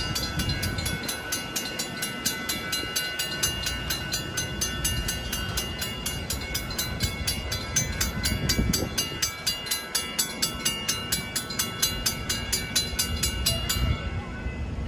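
Railroad grade-crossing bell ringing in rapid, even strikes, about three or four a second, then stopping about a second before the end, over the low rumble of a train at the crossing.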